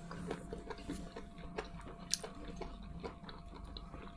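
People chewing baked sushi rolls close to the microphone: soft, irregular mouth clicks and smacks, with one sharper click about two seconds in.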